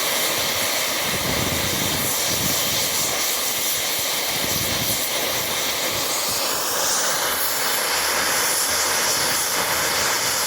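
British Rail Class 50 diesel locomotive's English Electric 16-cylinder engine running hard, with a steady engine sound and a high turbocharger whine that rises in pitch about six or seven seconds in.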